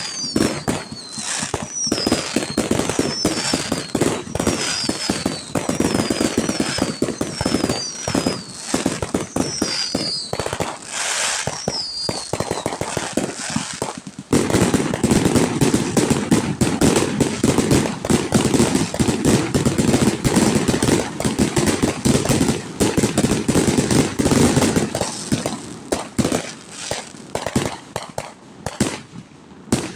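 Fireworks display: rapid bangs and crackling, with a string of short falling whistles through the first half. About halfway in, a louder, denser barrage of bangs starts, and it thins out near the end.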